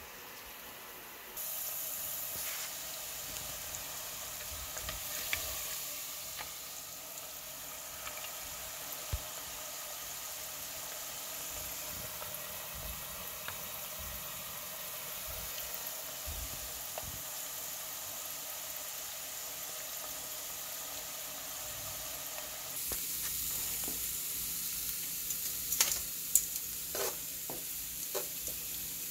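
Steaks, sausages and sliced red onions frying on a Presto electric griddle: a steady sizzle that gets louder about a second in. Near the end, metal tongs scrape and click on the griddle as the food is stirred.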